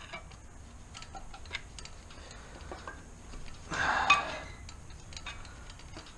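Hand ratchet wrench clicking in scattered short runs on the tight flywheel bolts, with a louder metallic scrape about four seconds in.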